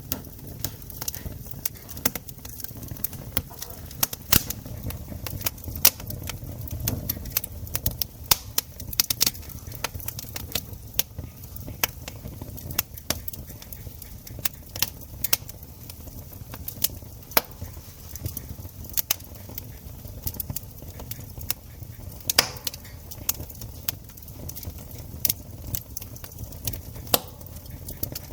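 Campfire crackling: irregular sharp pops and snaps over a low, steady rumble of the burning fire, with one louder pop about 22 seconds in.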